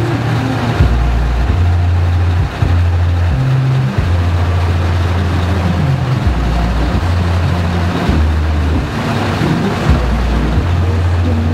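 Trucks running, a loud noisy din with a deep low drone that jumps between a few fixed pitches about every second or so.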